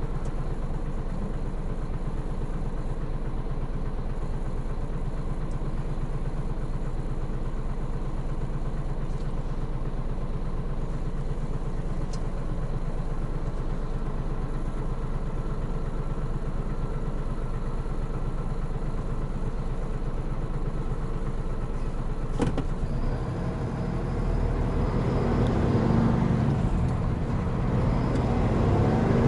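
Diesel engine of a Hino Profia heavy truck running steadily at low revs. A sharp click comes about three-quarters of the way in, and then the engine grows louder, its pitch rising as the truck accelerates.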